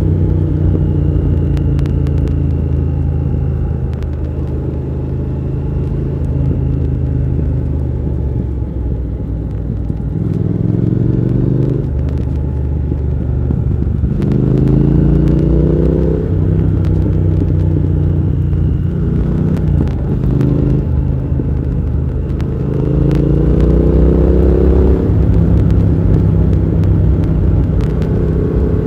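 Triumph Thruxton R 1200's parallel-twin engine running under way, rising in pitch as the rider accelerates, three times, and dropping back between pulls.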